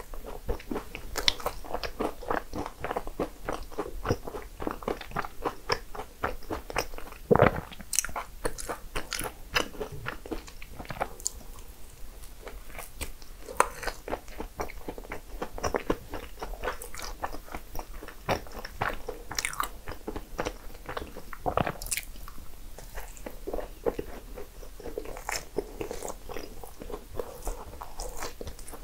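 Close-miked eating sounds of a person biting into and chewing soft desserts (cupcakes and cream puffs): a steady run of small mouth clicks and smacks, with a few sharper, louder bites, the loudest about seven seconds in.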